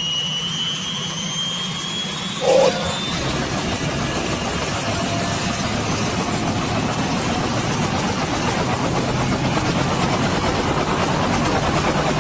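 Turbine helicopter starting up: a high whine rises over the first few seconds, a brief loud burst comes about two and a half seconds in, then the engine and rotor settle into a steady running sound that grows slightly louder.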